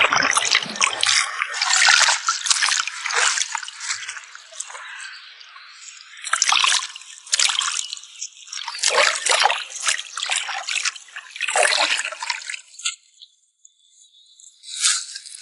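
Water trickling and dripping in irregular splashes, with a short lull near the end.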